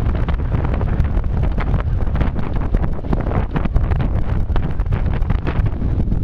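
Strong gusting wind from a passing typhoon buffeting the microphone: a steady heavy low rumble broken by rapid crackling.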